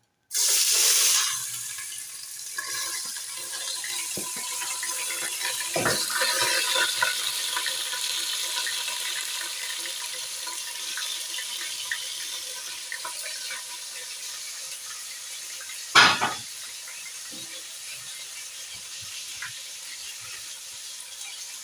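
Dry rice poured into hot cooking oil in a sufuria: a loud rush of grains at the start, then a steady sizzle as the rice fries. A single sharp knock comes about 16 seconds in.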